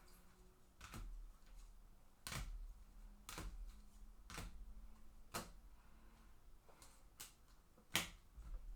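Trading cards and their plastic holders being handled and set down on a table one by one, giving light clicks and taps about once a second, the sharpest near the end.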